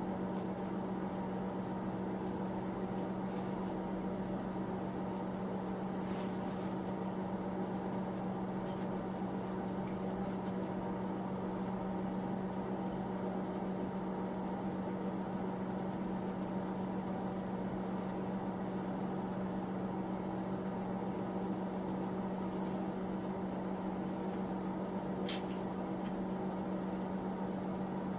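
Steady hum of a small electric space heater running, with a few faint light clicks, about three seconds in, six seconds in and near the end.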